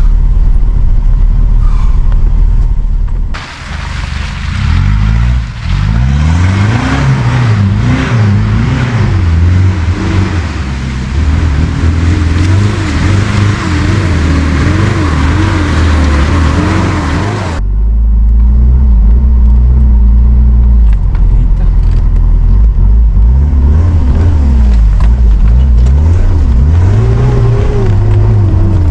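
Off-road vehicle's engine running under load with heavy low rumble, its revs rising and falling over and over. A wider hiss comes in suddenly about three seconds in and drops away just as suddenly past the middle.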